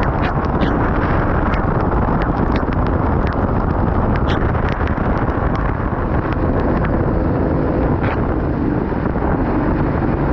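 Kart engine running at speed, heard onboard under heavy wind noise on the microphone, its pitch shifting a little, with scattered sharp ticks.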